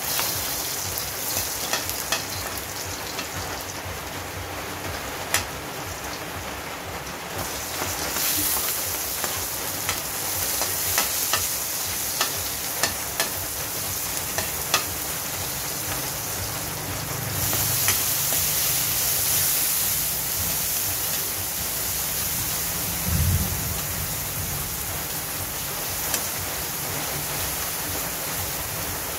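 Garlic, onion and tomato sizzling in oil in a carbon-steel wok, with a metal ladle and spatula stirring and clinking sharply against the pan. The sizzle grows louder a little past halfway.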